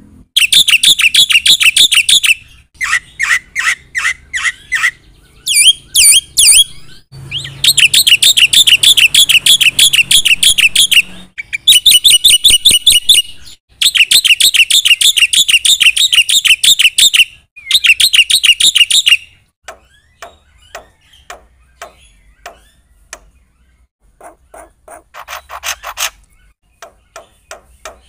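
Black-winged starling (jalak putih) singing: loud runs of rapid repeated high notes lasting several seconds each, with short breaks between. After about 19 seconds the song gives way to quieter, scattered clicks and short calls.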